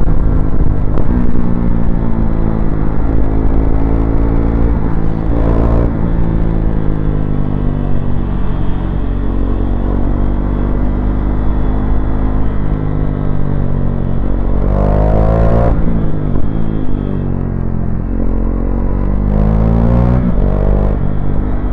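KTM Duke 390 single-cylinder engine accelerating through the gears, its exhaust running without the dB killer baffle. The engine note climbs and then drops back at each gear change, about three times.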